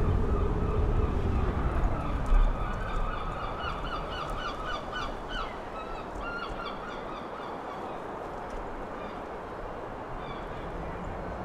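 Wind buffeting the microphone as a low rumble, strongest in the first two seconds and then easing. From about two to six seconds in, a flock of birds gives a quick series of short calls.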